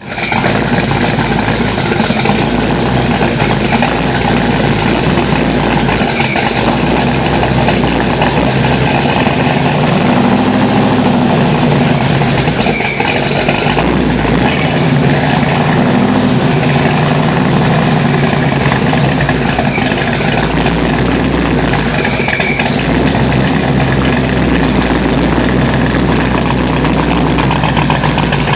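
Chevrolet Camaro SS V8 engine idling steadily, its exhaust loud at the tailpipes.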